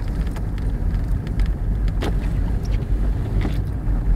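Car road noise heard from inside the cabin while driving on an icy, snow-covered road: a steady low rumble with scattered light ticks and two sharper clicks, about two seconds and three and a half seconds in.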